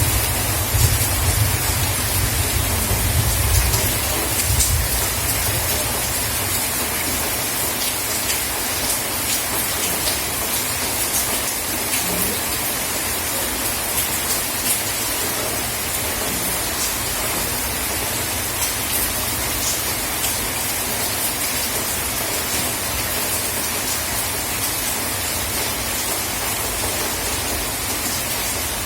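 Steady heavy rain falling, with scattered drop ticks. A low rumble sounds in the first few seconds and fades away.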